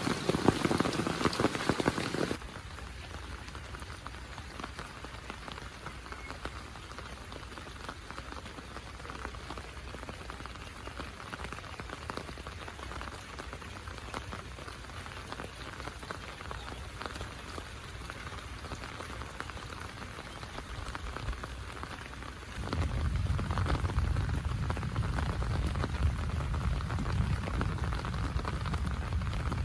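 Heavy rain falling steadily. It drops in level about two seconds in, then grows louder with a deep low rumble from about three-quarters of the way through.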